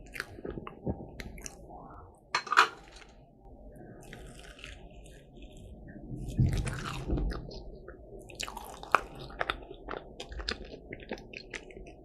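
Close-up crunching and chewing of a crisp croffle (croissant dough pressed in a waffle iron), with many small crackles and a sharp loud crunch about two and a half seconds in.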